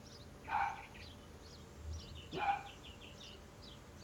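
Small birds chirping and twittering over and over, with two louder short animal calls about half a second and two and a half seconds in.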